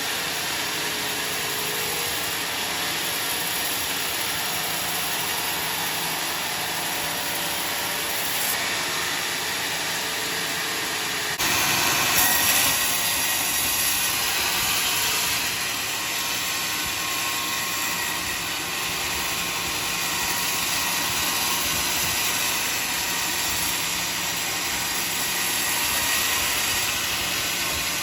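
Sawmill machinery sawing a large log, a steady loud mechanical noise of motor and blade. About eleven and a half seconds in it suddenly grows louder and harsher.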